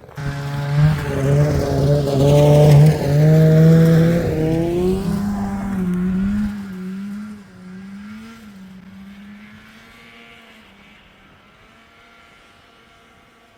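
Snowmobile engine running hard as it pulls away, its note rising about five seconds in. Then the note wavers and fades steadily as it rides off into the distance.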